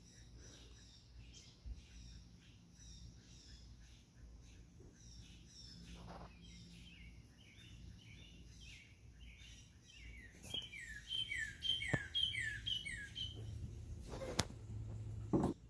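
Several birds chirping and calling in short, repeated notes, many sliding downward, growing busier and louder about two-thirds of the way through. A sharp click sounds near the end over a low steady hum.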